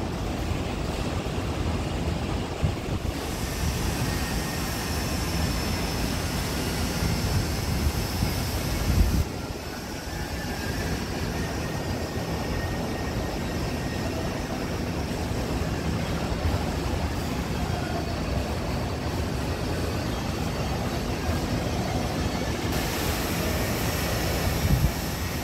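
Steady rumbling ambient noise with gusty low buffeting, like wind on the microphone. The sound changes abruptly about nine seconds in.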